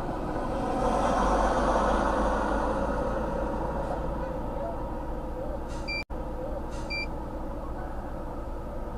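Steady vehicle rumble and road noise that swells briefly about a second in, with two short high electronic beeps about a second apart near the middle.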